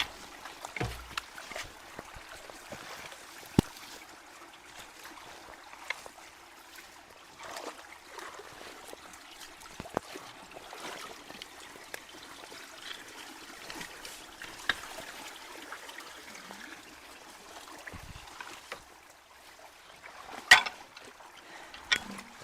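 Water running and trickling steadily into a culvert entrance as it is cleared of debris, with scattered sharp knocks, the loudest about 20 seconds in.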